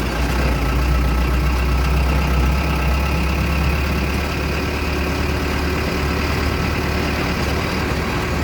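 Truck engine running with a steady low drone, slightly louder in the first couple of seconds.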